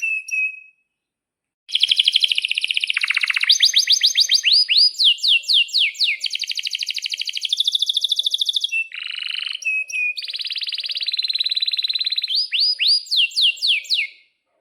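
Male domestic canary singing a long song: fast buzzy trills and rolls broken by runs of quick downward-sweeping whistled notes. The song starts again after a second's pause near the start and stops just before the end.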